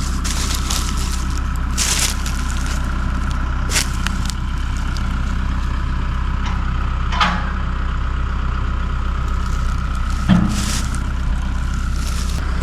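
Tractor engine running steadily, with scattered cracks and crunches about every second or two.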